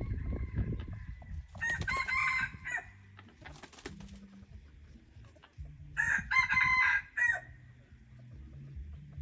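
Hybrid junglefowl rooster crowing twice, each crow short and broken into several notes, about four seconds apart.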